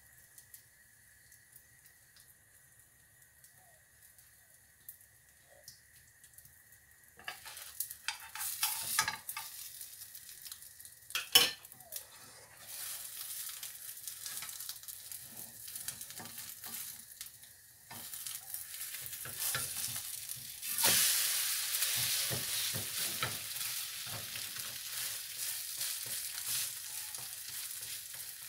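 Mushroom omelette frying in a pan, with a spoon and then a spatula scraping and tapping against the pan. It starts quiet; scrapes and clicks come in about a quarter of the way through, including one sharp click. A steady sizzle then follows and grows louder about two-thirds of the way in.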